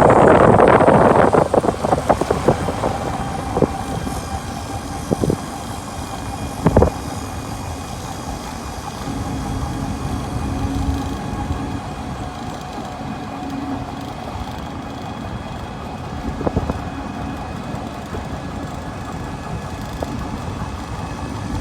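A three-wheeled pedicab in motion: steady road rumble and rattling of its open body. A louder rush in the first couple of seconds and a few sharp clunks over bumps.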